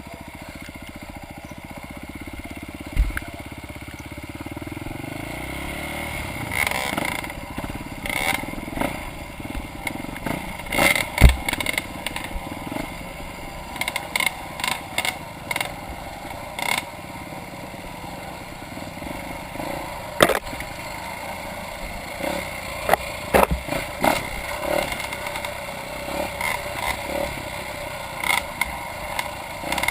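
Off-road motorcycle engine running at low, fairly steady revs while riding a rough trail, with frequent sharp clacks and rattles from the bike working over rocks and rough ground.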